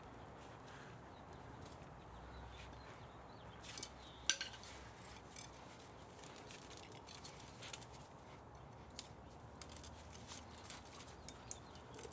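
Scattered light metallic clicks and taps from dismantling a spa motor for scrap, one sharper tap about four seconds in and a run of small ticks near the end, over a low steady hiss.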